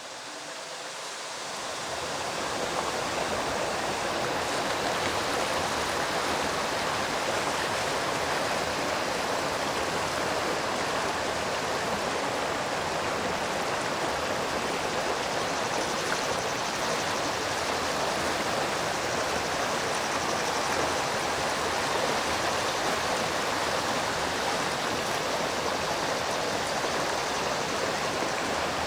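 Stream water running, a steady rushing hiss that fades in over the first couple of seconds and then holds even.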